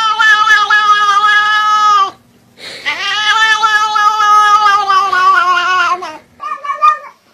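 A cat giving weird, long drawn-out meows: a call of about two seconds, then after a short pause a longer one of about three seconds, then two short ones near the end.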